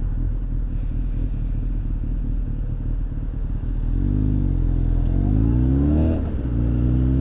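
Honda X4's inline-four engine running low and steady, then accelerating from about four seconds in with rising revs, a dip at a gear change near six seconds, and rising again.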